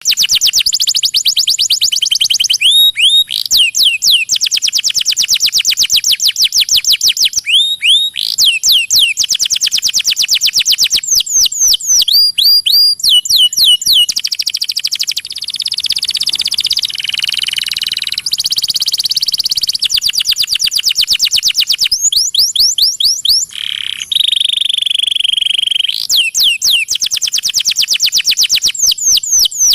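Domestic canary song played as a recording: long, fast trills of rapidly repeated high notes, broken every few seconds by short groups of down-slurred whistles, with a couple of steadier buzzy stretches partway through.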